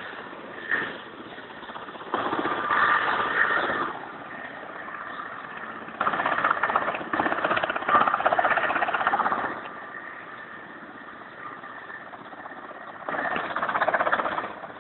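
Mil Mi-17V5 helicopter's twin turboshaft engines and rotor running, coming in loud surges about two seconds in, around six to nine seconds in, and again near the end, over a faint steady whine.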